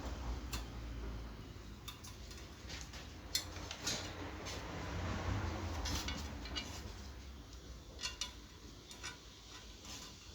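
Irregular light clicks and clinks of metal parts and tools being handled, over a faint low hum.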